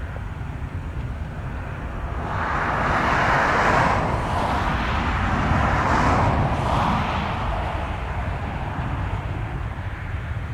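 A passing vehicle: a rushing noise swells over a couple of seconds, peaks, then fades over a steady low rumble.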